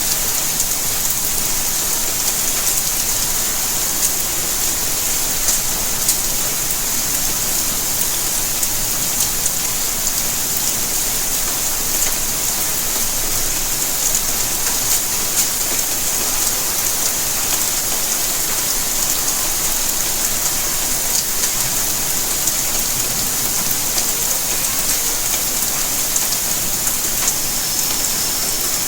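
Steady rainfall: a dense, even hiss of falling rain with scattered individual drops ticking on surfaces.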